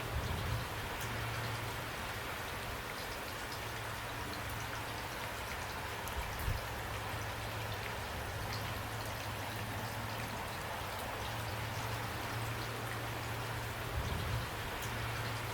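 Steady rain falling, with individual drops ticking against a surface over an even hiss. A steady low hum sits underneath, and a few brief low thumps come through, the strongest about six and a half seconds in.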